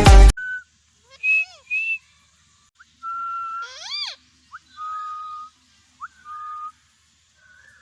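Indian ringneck parrot giving a string of short, high whistled word-like calls, some gliding up and down in pitch, with a longer rising-and-falling call about four seconds in.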